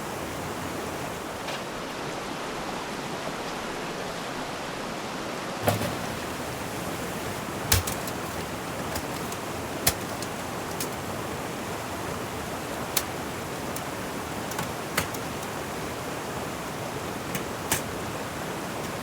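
Steady rushing of running water, with a few sharp taps or clicks scattered every couple of seconds.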